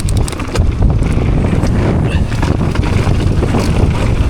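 Strong wind buffeting the microphone as a low, steady rumble, with scattered clicks and rattles from a mountain bike riding over the trail, most of them in the first second.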